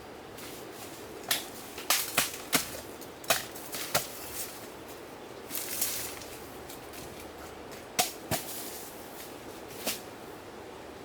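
Bamboo shoots being harvested: a series of sharp, irregular cracks and knocks, several close together in the first four seconds and a few more spaced out later, with a short rustle near the middle.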